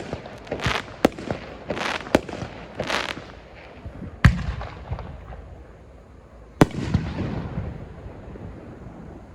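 Aerial fireworks shells of up to 3-go size bursting at close range: a string of sharp bangs with crackling, hissing star effects between them, thinning out after the first few seconds, with a last bang about two-thirds of the way through that fades into crackle.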